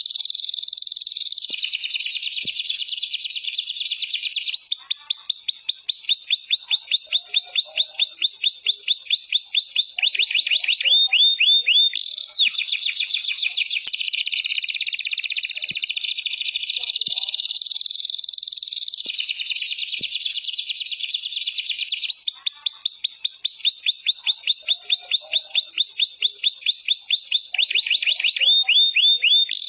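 Domestic canary singing without pause: long, rapid trills one after another, twice broken by a brief run of slower, clearer repeated notes. The same sequence of phrases comes round again about every seventeen seconds, as a looped training recording.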